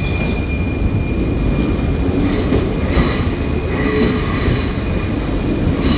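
Class 802 IET bi-mode train running slowly alongside the platform as it arrives, a steady rumble of wheels and traction with a thin high squeal in the first couple of seconds and hissy rises through the middle.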